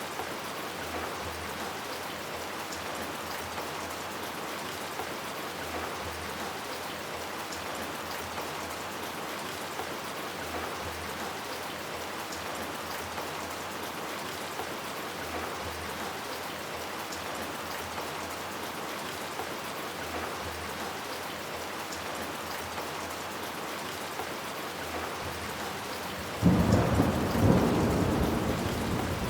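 Steady heavy rain falling, with a loud clap of thunder breaking in suddenly near the end and rumbling on.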